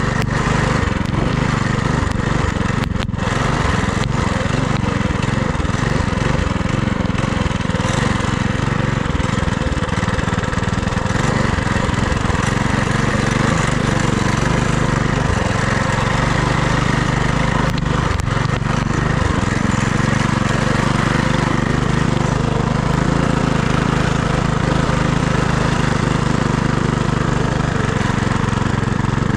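FRP GMB100 minibike's small single-cylinder engine running steadily while riding, with constant wind rush over the microphone.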